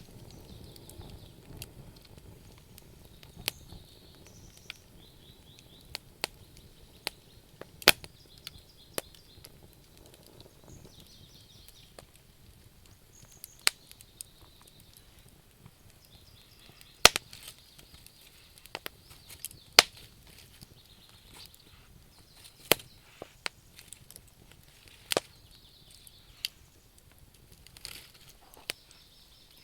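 Wood campfire crackling: irregular sharp pops and snaps of burning wood, a few much louder than the rest, over a soft steady hiss.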